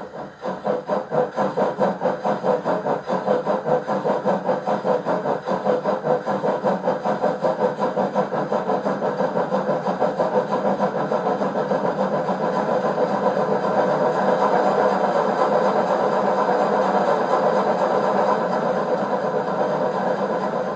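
Sound module of a Piko BR 50 garden-railway model steam locomotive playing steam-locomotive exhaust chuffs through its small loudspeaker. The even beats quicken until they blend into a steady sound, and the sound cuts off abruptly near the end.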